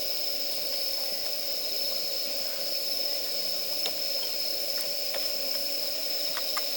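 Campfire of damp firewood burning, with a steady high-pitched hiss and a few scattered sharp crackles, more of them near the end.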